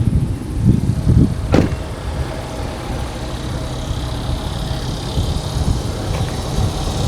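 A vehicle engine running steadily with a low hum, with a few handling thumps and one sharp knock about a second and a half in.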